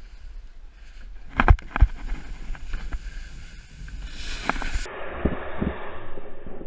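A canoe sledding down a bank on its hull, with two hard thumps about a second and a half in and several more knocks later, over a steady rushing noise.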